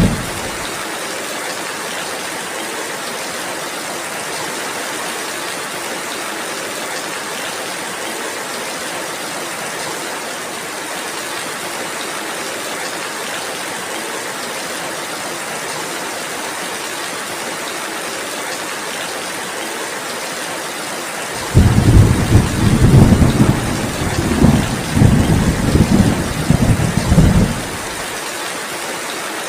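Steady rain hissing throughout. About two-thirds of the way in, a loud low rumble of thunder rolls for about six seconds, and the tail of another rumble fades out right at the start.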